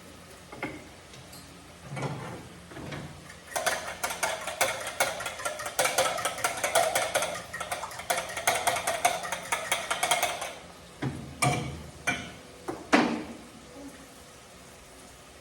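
A fast run of sharp clattering knocks lasting about seven seconds, with a few single knocks before and after it.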